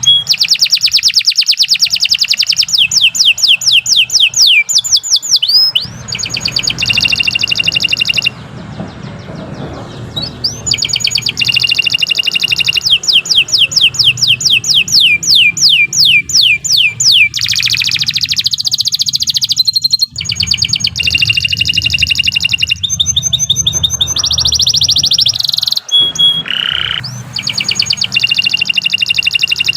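Domestic canary singing a long, loud song of rapid repeated trills and rolling notes, one fast run after another with short breaks and a brief lull about a third of the way through.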